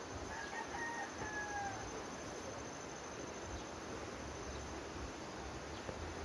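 A rooster crowing once, faint, for about a second and a half, its pitch dropping slightly at the end, over a low steady background hiss.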